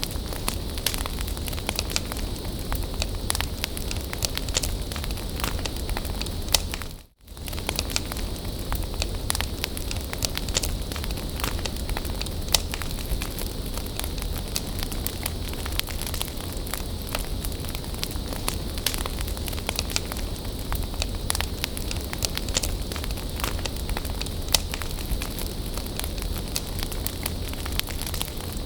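Bonfire burning with a steady hiss and frequent sharp crackles and pops. About seven seconds in, the sound briefly fades out and comes back.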